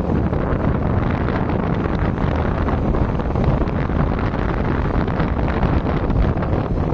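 Wind buffeting the microphone, a steady, heavy low rumble.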